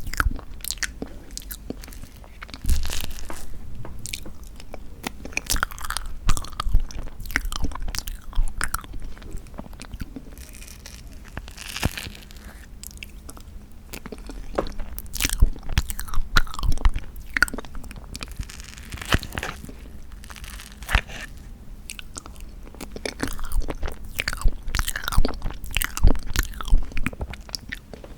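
Close-miked eating sounds of bean-curd tiramisu cake: biting and chewing with many sharp wet mouth clicks and smacks, coming in clusters.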